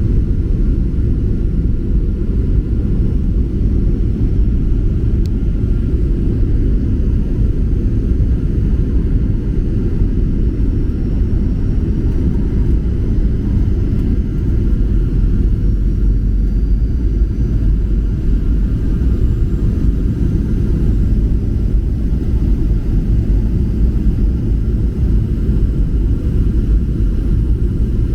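Steady low rumble of a Boeing 737-800 airliner's CFM56 jet engines and airflow, heard from inside the passenger cabin, unchanging throughout.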